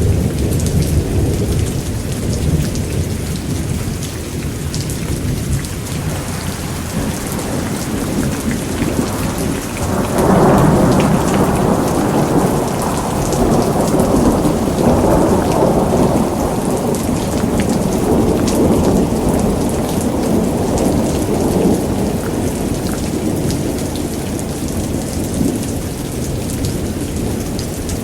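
Thunderstorm: steady heavy rain with rolling thunder. A louder roll of thunder breaks about ten seconds in and rumbles on, slowly fading over the next ten seconds or so.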